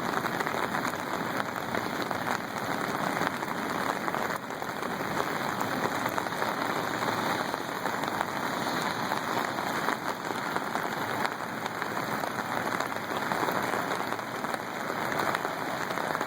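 Steady rushing of fast-flowing floodwater from the swollen river, an even hiss without breaks.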